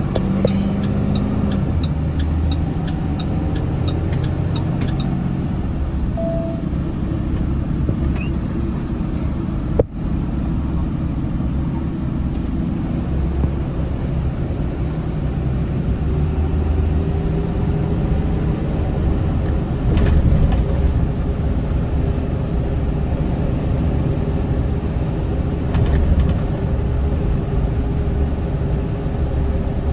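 Box truck on the move, heard from inside the cab: a steady low rumble of engine and road noise. There is a light rhythmic ticking for the first few seconds and a single sharp click about a third of the way through.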